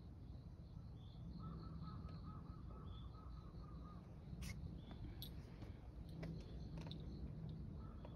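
A distant bird calls in a quick run of repeated notes for about two seconds, starting about a second and a half in, over faint high chirps of insects and a low steady outdoor rumble. A few light clicks follow in the second half.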